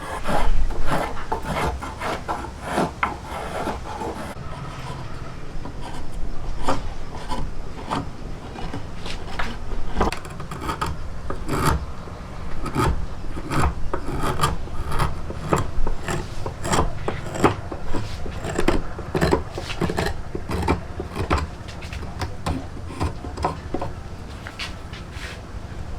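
Hand tool rubbing and scraping across wood in irregular strokes, about one or two a second, over a low steady hum.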